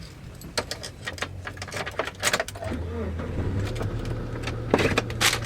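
Car running, with a steady low hum that grows stronger about halfway through, and scattered clicks and taps over it.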